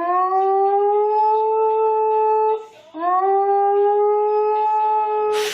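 A dog howling: two long howls, each sliding up in pitch and then held steady, with a short breath between them. A brief burst of noise comes at the very end.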